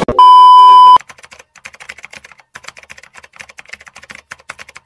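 A loud, steady test-pattern beep lasting under a second that cuts off abruptly, followed by a quick run of keyboard typing clicks, an editing sound effect for text typing itself onto the screen.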